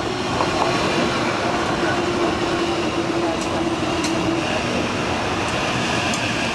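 İZBAN E22000-class electric multiple unit passing close at speed: a steady rumble of wheels on rails, with a held hum through the first four seconds or so and a few sharp clicks as the wheels cross the track.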